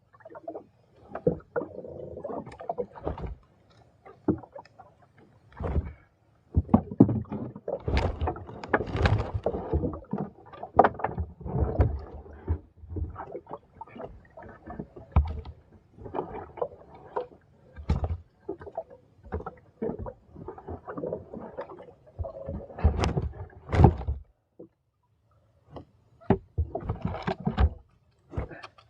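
Irregular splashing and sloshing of water with knocks and bumps against a small fishing boat, coming in uneven bursts with short pauses.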